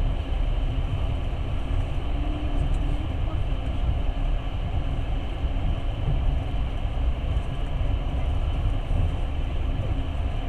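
Passenger train running along the track, heard from inside the carriage: a steady low rumble of wheels on rails.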